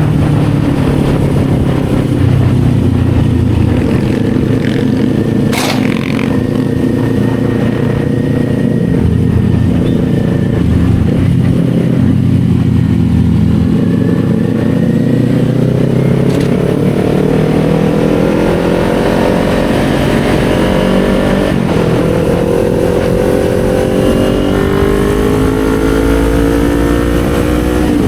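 Kawasaki Z400's parallel-twin engine running under way, steady at first, then climbing in pitch through the second half as the bike accelerates. A single sharp click sounds about six seconds in.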